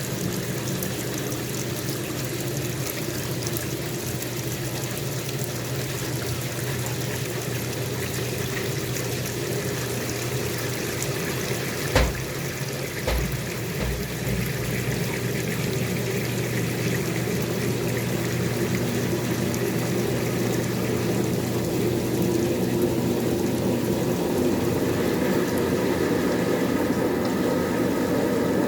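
White Westinghouse washing machine draining: the drain pump hums steadily as water rushes out. There is a sharp knock about twelve seconds in and a few low knocks a second or two later, and the sound slowly grows louder toward the end.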